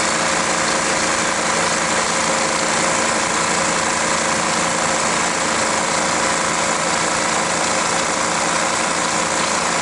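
Mercedes Sprinter 2.9 five-cylinder turbodiesel engine idling at a steady, unchanging speed.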